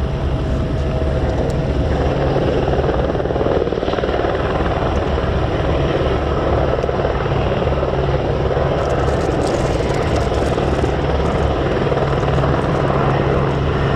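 Airbus Helicopters H125 single-engine turboshaft helicopter running, a steady loud rotor and turbine sound with a constant low beat.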